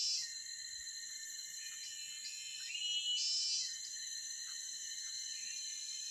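Steady high-pitched chorus of forest insects, with a call that rises briefly and then holds for about a second, repeated about every three and a half seconds; one comes about three seconds in.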